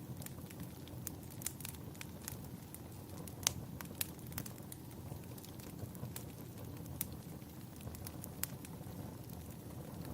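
Wood fire crackling in a fireplace: scattered sharp pops and snaps, one stronger pop about three and a half seconds in, over a steady low rumble.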